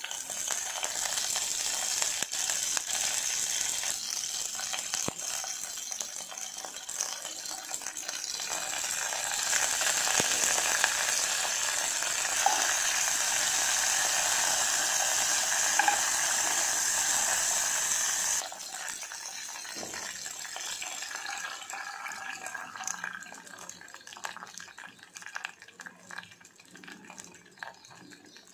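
Tempering (tadka) sizzling in a pot: curry leaves, chopped green chillies and mustard seeds frying in hot oil, stirred with a spoon. The sizzle is loud for about eighteen seconds, then drops suddenly to a quieter, fading sizzle with small spoon clicks.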